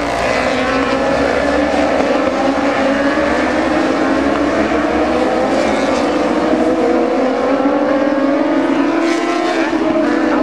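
Several racing motorcycles' engines running at high revs together, their overlapping notes rising and falling as the bikes accelerate and change gear.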